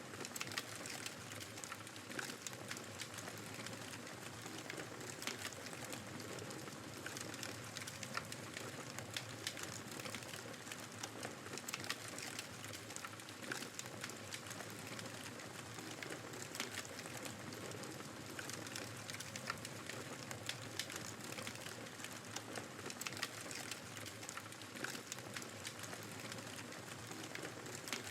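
Wood fire crackling in a fireplace, with frequent small sharp pops and snaps, over a steady hiss of blizzard wind.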